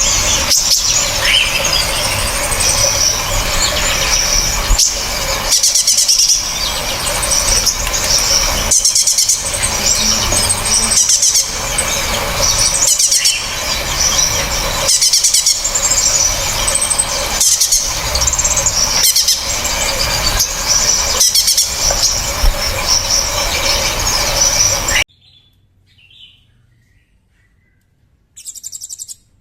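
Recorded songbirds chirping loudly and sharply in a dense, shrill stream, with short breaks roughly every two seconds as phrases repeat. About 25 seconds in the recording cuts off suddenly; a few faint calls follow, then a short loud burst of chirps near the end.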